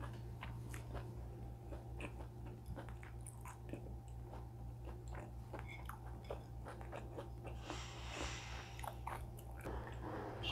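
A person chewing food close to a clip-on microphone: many small, crisp mouth clicks and crunches, over a steady low hum.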